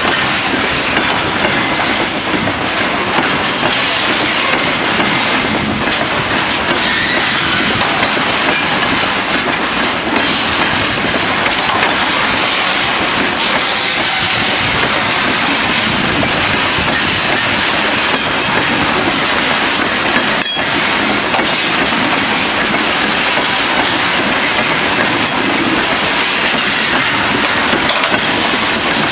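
Freight train of open wagons rolling past, a steady loud rumble and clatter of steel wheels on the rails.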